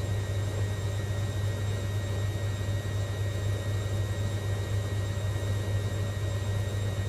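Hoover Logic 1300 A3790 washing machine running steadily, a constant low hum and whir with no knocking, really smooth and stable.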